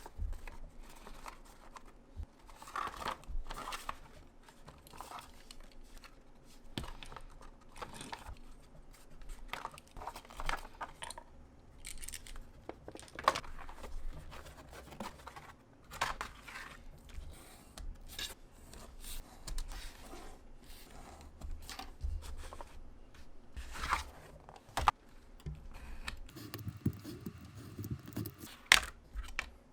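Scissors cutting craft material by hand, with irregular snips, rustling and small clicks as the material is cut and handled.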